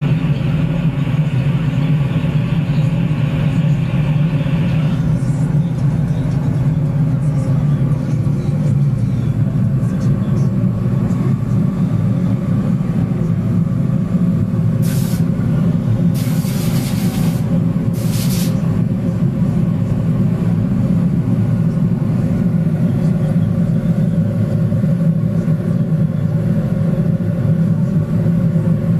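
Bronze-melting furnace with its flame burning at full heat, holding a melt of about 150 kg of bronze shortly before the pour: a loud, steady low rumble. A brighter hiss rides on top for the first few seconds, and three short bursts of high hiss come about halfway through.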